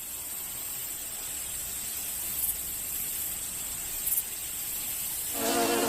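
Steady outdoor nature ambience: an even hiss with a high, continuous insect chirr and a couple of faint ticks. Near the end a fly's buzz starts up, loud and close.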